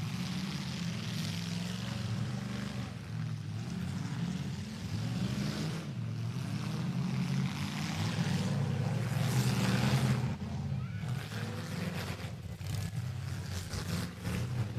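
Demolition derby car engines running in a steady low drone, their pitch shifting slightly as the drivers rev.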